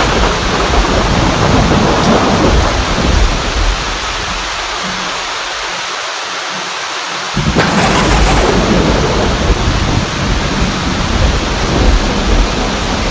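Steady heavy rain with rolling thunder. The deep rumble fades away in the middle, then a sudden loud thunderclap breaks in about seven seconds in and rumbles on under the rain.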